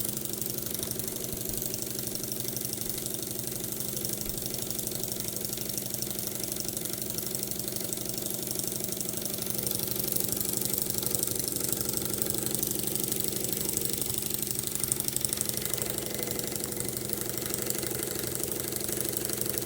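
Mamod showman's engine, a toy live-steam engine with a slide-valve cylinder, running steadily below full speed with a rapid, even beat.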